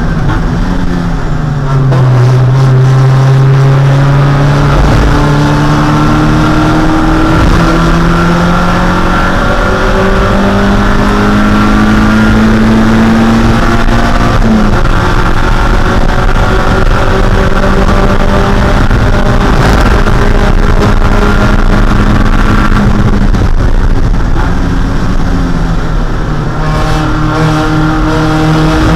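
1.6-litre Mazda Miata four-cylinder race engine pulling hard under load. Its pitch climbs slowly for over ten seconds, then drops abruptly about halfway through. It holds steady, dips a little past twenty seconds, and starts climbing again near the end.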